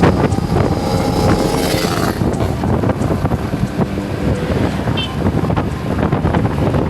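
Wind buffeting the microphone over steady vehicle and road noise, as heard from a moving motorcycle.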